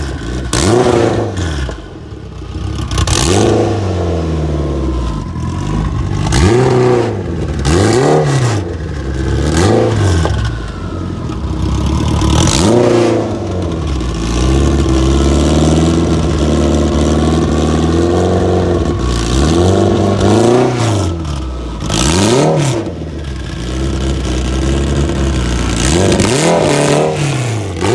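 Car engines being revved over and over, each blip sweeping up in pitch and falling back every second or two, over other engines idling steadily.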